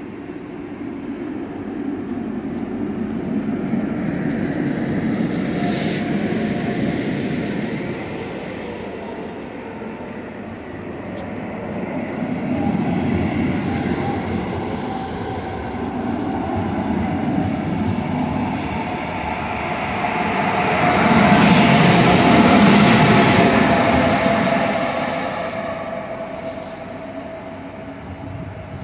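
CFL electric double-deck passenger train rolling slowly past the platform: a steady rumble of wheels and running gear that swells and fades several times, loudest about two-thirds of the way through, with hiss and a faint steady whine in the second half.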